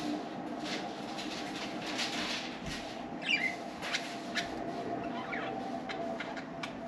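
Pet budgerigars chirping and chattering in short calls, over a steady low hum.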